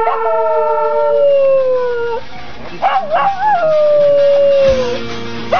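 A dog howling over background music: two long howls, each starting with a waver and sliding slowly down in pitch, and a third beginning right at the end.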